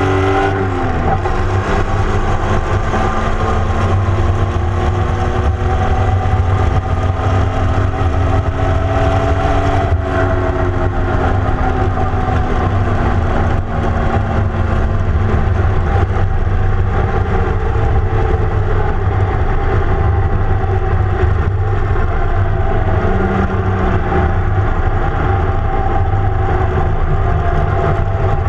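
Holden grey motor straight-six in an open dragster. Its revs drop about a second in as the car slows after a pass, then it runs steadily at low revs with small rises and falls in pitch while the car rolls along slowly. Wind and road noise hiss over it.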